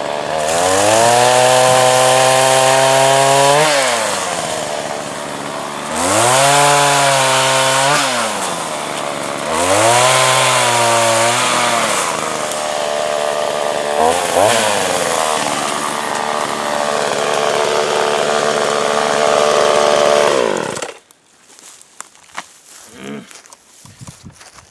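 JCB petrol two-stroke chainsaw revved up to full throttle about four times and cutting wood, the pitch rising and falling with each rev. It runs on more steadily, then stops suddenly near the end. The chain has gone slack after its first minute of use on a new chain.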